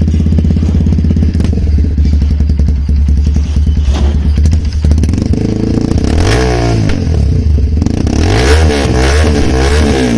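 Bajaj Pulsar 220F's single-cylinder engine running loudly through an aftermarket exhaust, idling steadily and then revved up and let fall twice in the second half.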